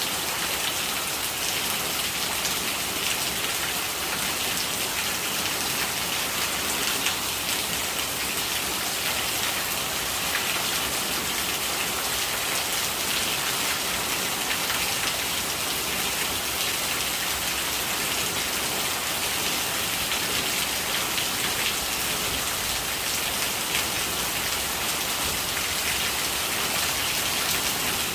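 Rain falling steadily: a dense, even hiss of many small drops.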